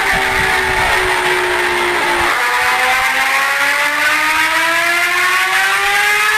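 Motorcycle engine being ridden: its note falls for about two seconds, then climbs steadily as the bike accelerates.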